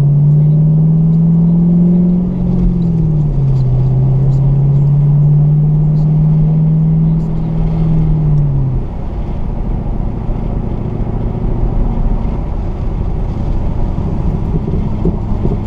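Chevrolet Camaro engine droning while driving. Its pitch climbs slowly, drops suddenly about three seconds in, climbs again, then falls away about eight seconds in, leaving a lower rumble of engine and road noise.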